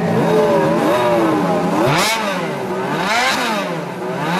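Ferrari 430 Scuderia Spider 16M's 4.3-litre V8 revved in a string of throttle blips, its pitch climbing and falling with each one. The biggest rises come about two and three seconds in, and another starts near the end.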